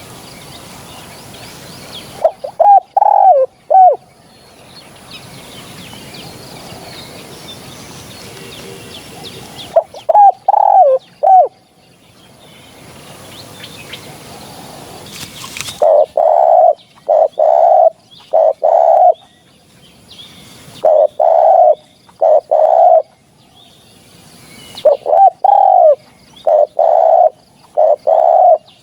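Spotted dove cooing in five bouts of several low coos each, with faint chirping from other birds in the quiet gaps between bouts. It is a recorded call used as a lure for hunting spotted doves.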